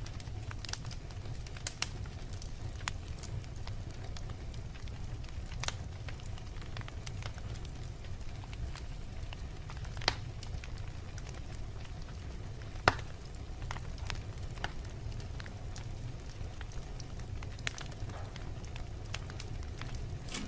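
Fire burning in a fireplace: a steady low rumble of the flames with scattered crackles and sharp pops, the loudest about ten and thirteen seconds in.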